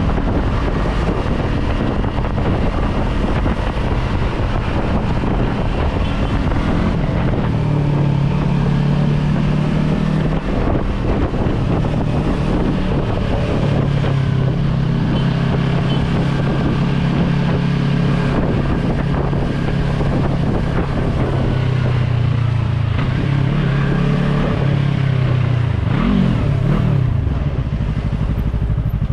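Yamaha R3 parallel-twin motorcycle engine running while riding, with wind noise on the microphone. The engine note holds steady pitches and steps between them. About four seconds before the end it revs up and drops back quickly.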